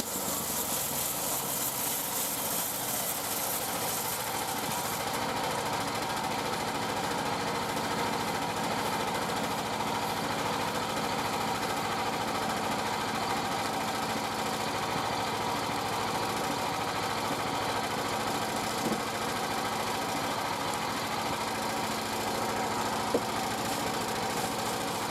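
Portable bandsaw mill's engine running steadily while it saws a yew log. A higher hiss sits over it for the first few seconds, and there are two small clicks near the end.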